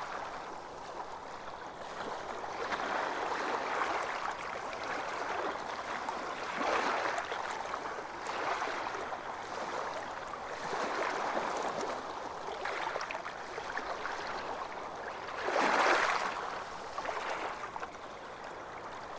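Small sea waves washing onto a beach, the surf swelling and falling back every couple of seconds, with one louder wave breaking near the end.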